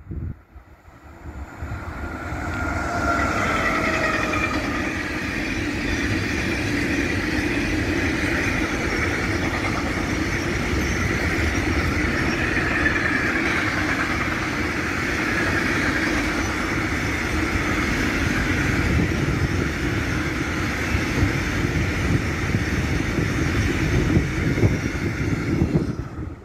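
Freight train passing. About three seconds in, the locomotive goes by with a few tones that drop slightly in pitch. A long, steady rumble of the wagons rolling over the rails follows.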